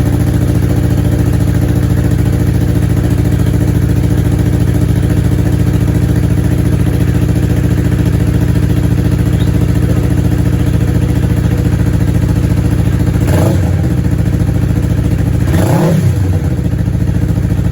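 2020 Yamaha R3's parallel-twin engine idling loud and steady through an M4 Street Slayer slip-on exhaust with its dB killer in, blipped briefly twice near the end.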